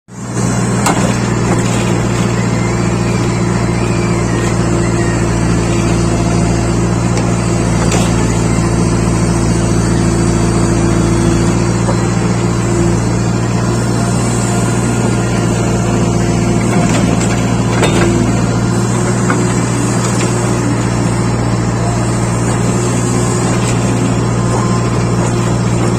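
Heavy diesel engine running steadily at constant speed, a deep even hum, with a couple of brief knocks.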